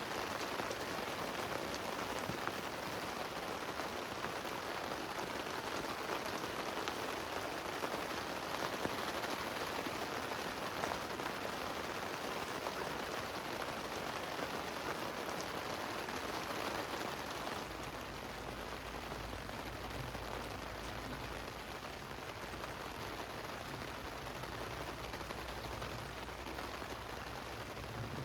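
Heavy rain falling steadily, a dense even patter of drops. About two-thirds of the way through the sound turns duller, with a low rumble underneath.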